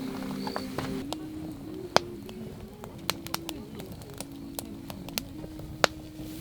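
Wood campfire crackling with irregular sharp pops, the loudest about two seconds in and again near the end, over soft background music.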